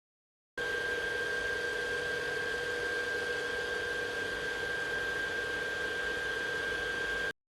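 A small electric motor spinning at constant speed, a steady hum with a thin high whine over it, cut in and out abruptly.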